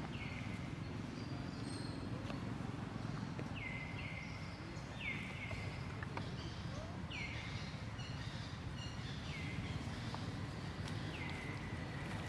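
A bird calling over and over, short notes that sweep down in pitch and settle, about one every second or two, over a steady outdoor rumble.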